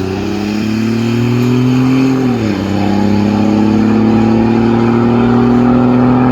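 Diesel pickup truck's engine at full throttle, accelerating down the drag strip. Its pitch climbs, falls sharply about two and a half seconds in, then climbs slowly again.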